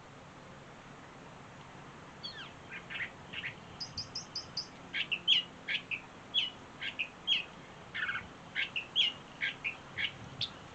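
Wild songbird singing: a lively series of short chirps and quick down-slurred notes that starts about two seconds in, with a fast run of five high notes about four seconds in.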